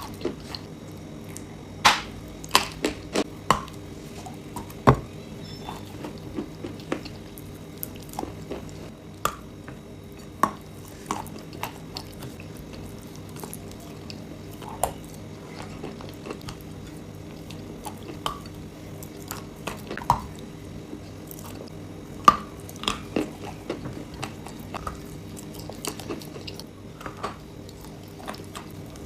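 Chalk and clay crunching and crumbling in sharp, irregular cracks, some in quick clusters, over a steady low hum.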